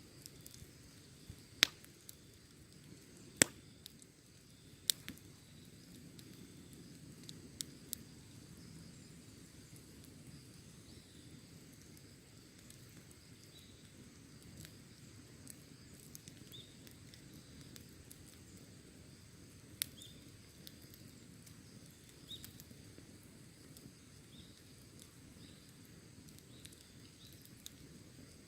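Wood fire burning with a soft low hiss, broken by sharp crackling pops, the loudest two within the first few seconds and a few scattered ones after.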